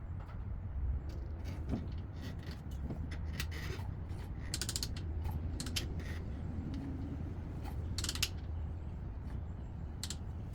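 Hand tools clicking and creaking against a 140cc pit bike engine as it is turned over by hand to set it on the compression stroke. Scattered sharp metallic clicks, some in quick runs, over a low steady hum.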